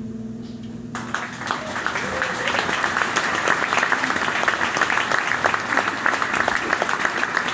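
The last guitar chord rings out and fades as audience applause breaks out about a second in and builds into steady clapping.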